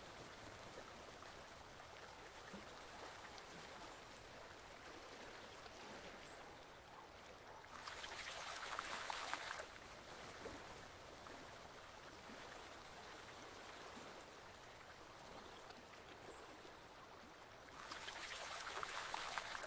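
Forest stream flowing: a steady rush of water that swells louder for about two seconds twice, once midway and again near the end.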